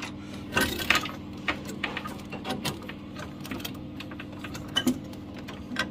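Irregular clicks and light taps of boiler pipework and fittings being handled and lined up, with a cluster of sharper clicks about half a second in, over a steady low hum.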